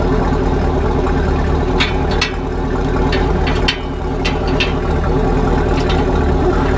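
Engine of a straight-piped car with a muffler delete idling steadily. A handful of sharp, short clicks come between about two and four and a half seconds in.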